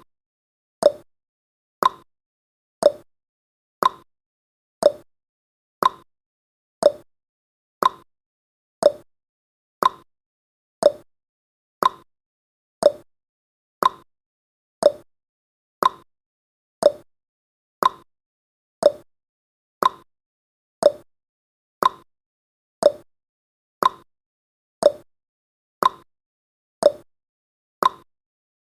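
Clock-style tick-tock sound effect of a countdown timer, one tick each second, alternating between a higher and a lower tick.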